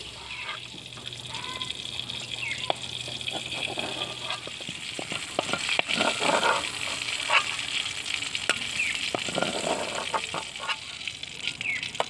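Stuffed bitter gourds frying in oil in a wok with a steady sizzle, while a metal utensil scrapes and clicks against the wok and a steel plate as pieces are lifted out and turned. A few short bird chirps sound now and then.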